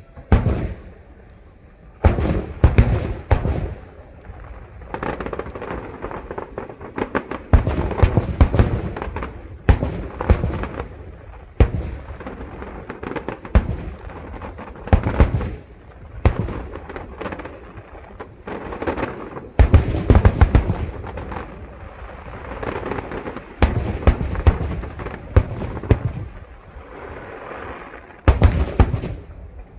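Aerial fireworks display: shells bursting in rapid volleys of sharp bangs and crackles, a new cluster every second or two, each trailing off in a short rumble.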